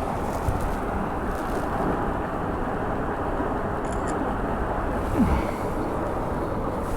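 Steady rush of wind buffeting the microphone on open water, with a short falling vocal sound about five seconds in.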